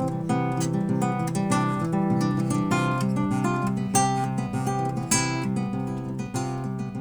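Acoustic guitar strummed, chords ringing between strokes, slowly growing quieter.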